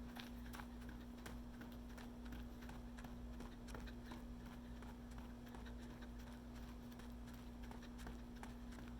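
Running footsteps, a fairly even patter of footfalls at about two to three a second, over a steady low hum.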